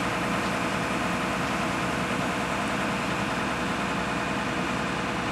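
An engine running steadily, a constant drone with a steady hum in it.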